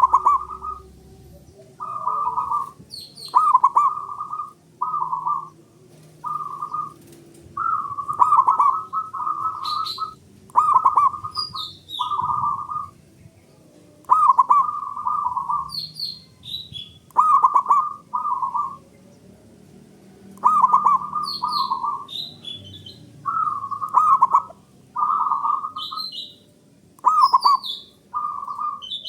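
Male zebra dove (perkutut) singing its cooing song, repeated phrases about half a second to a second long with short gaps between them. Thin high chirps sound over it now and then.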